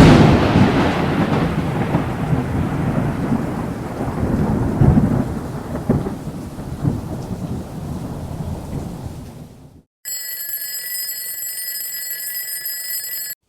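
A sudden thunderclap, then rolling thunder over steady rain that fades out over about ten seconds. A steady ringing tone with several pitches follows for the last few seconds.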